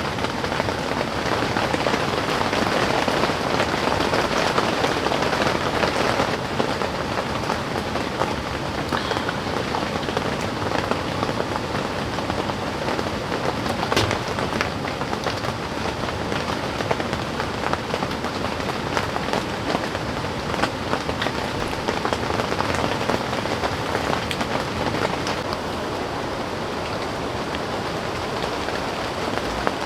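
Steady heavy rain, a dense patter of drops striking a surface, with one slightly sharper drop hit about halfway through.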